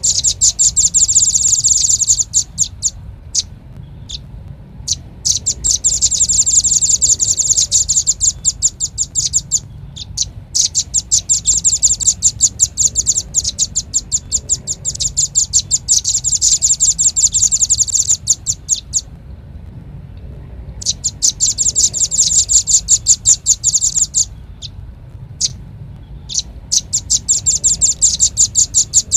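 Velvet-fronted nuthatch (red-billed rambatan) calling in bouts of rapid high chattering trills, each several seconds long, broken by short pauses with a few single chips, over a faint low hum; a bird-lure call recording.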